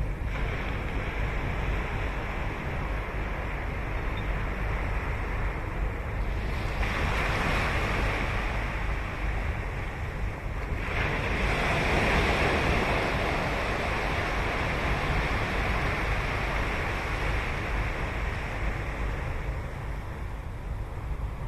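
Ocean waves breaking on a sandy beach on Sagami Bay: a steady wash of surf over a low rumble, with two waves breaking and rushing in, one about seven seconds in and a louder one about eleven seconds in that fades slowly. Wind rumbles on the microphone throughout.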